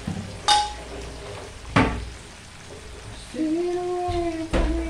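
Food frying in hot oil with a steady sizzle, broken by two sharp clicks in the first two seconds. A steady held tone comes in about three seconds in.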